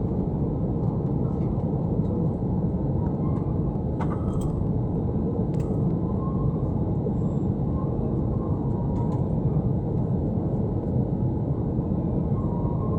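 Steady low rumble inside an airliner's passenger cabin, from the jet engines and airflow. There are a few faint clicks and ticks over it.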